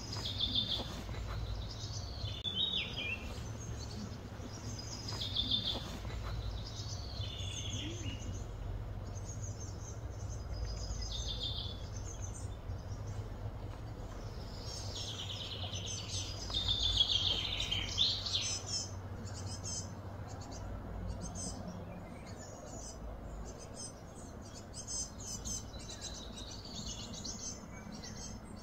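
Wild birds singing outdoors in short, repeated falling phrases, busiest about halfway through, then quicker chirps near the end. A steady low background rumble runs underneath.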